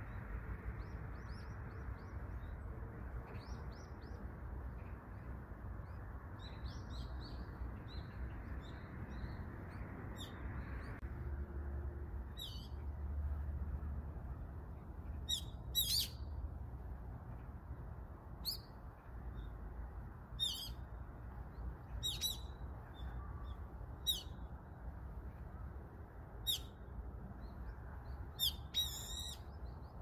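Wild songbird calls: faint high chirps at first, then from about twelve seconds in a series of sharp, shrill calls every second or two, the loudest near the end. A steady low background rumble runs under them.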